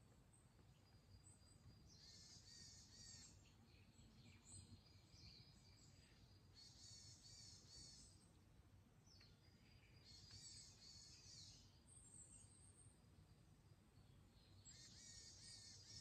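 A songbird repeating a short, quick song phrase about every four seconds, four times in all, with fainter calls from other birds between phrases, over a steady low background rumble.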